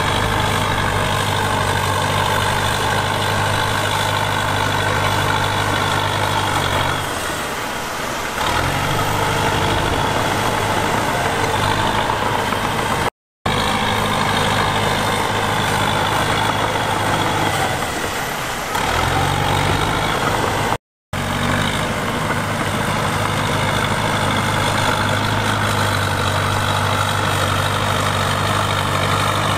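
Heavy earthmoving machine's diesel engine running steadily. Its note sags briefly twice and comes back up. The sound cuts out abruptly for a moment twice.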